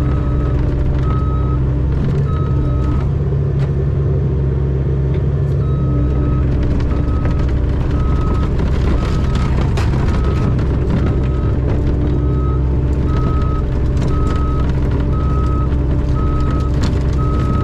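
Mini excavator engine running steadily while its travel alarm beeps about once a second as the machine tracks; the beeping pauses for a few seconds near the start, and a few clanks sound over the engine.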